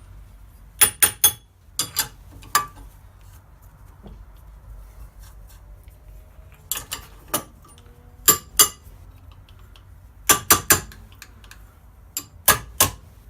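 Steel differential parts, a bearing and a shim washer, being handled and knocked together: sharp metallic clinks and clanks in short groups of two or three, about fifteen in all.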